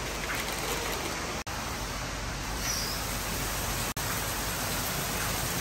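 Steady hiss of heavy rain pouring down, cutting out for an instant twice.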